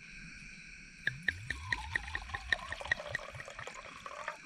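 Liquid glugging out of a bottle as it is poured, about four glugs a second, the pitch of each glug falling as the bottle empties.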